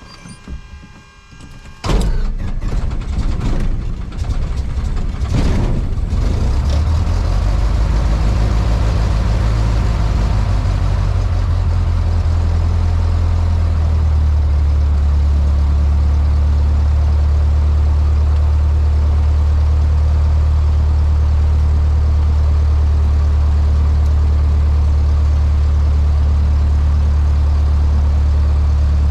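Cessna 152's four-cylinder Lycoming engine starting about two seconds in, running unevenly for a few seconds, then settling into a steady idle.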